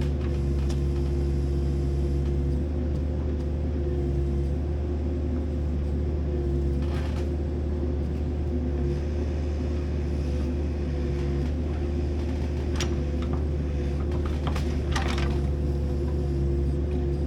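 An engine running steadily at a constant speed, with a few short scraping or knocking noises over it.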